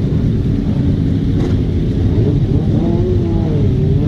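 Motorcycle engines running together, with one revving up and down near the end.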